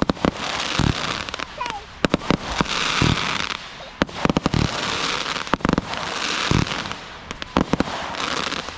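Fireworks going off: many sharp bangs in quick succession, with crackling and hissing between them.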